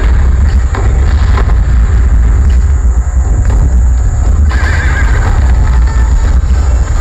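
Horse whinnies and hoofbeats in a very loud show soundtrack played over loudspeakers, over a heavy bass rumble; a wavering whinny comes about four and a half seconds in.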